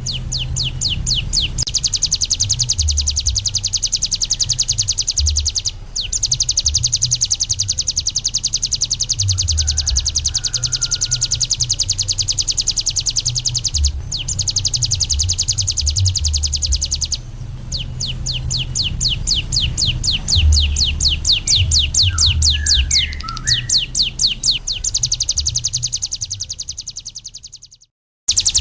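Ciblek gunung, a prinia, singing a long, fast, high-pitched trill of rapidly repeated notes, breaking off briefly a few times and fading out near the end. A low rumble runs underneath.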